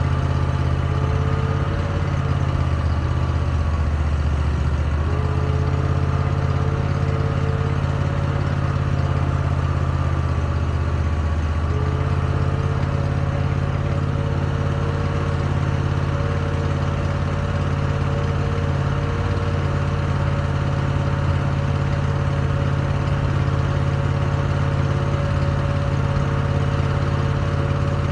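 An engine running steadily at idle, its pitch shifting slightly a few times in the first twelve seconds or so and then holding steady.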